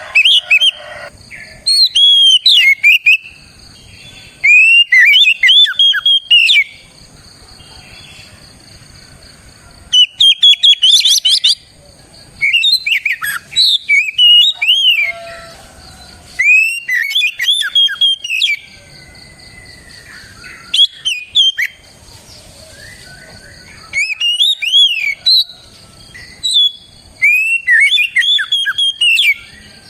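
Oriental magpie-robin (kacer) singing in loud phrases of rapid, sweeping whistled notes, each phrase a second or two long with short pauses between. A faint steady high-pitched whine runs underneath throughout.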